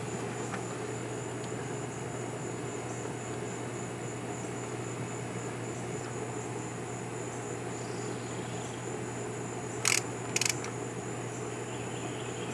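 Steady trilling of crickets over a constant low hum, with two brief sharp clicks about ten seconds in, likely from handling the relay's wires and parts.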